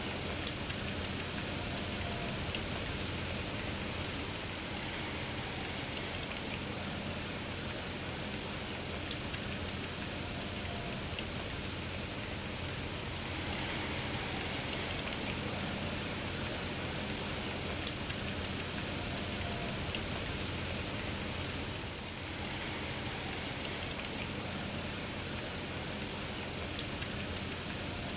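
Steady rain falling, an even hiss, with four sharp ticks at even spacing about nine seconds apart.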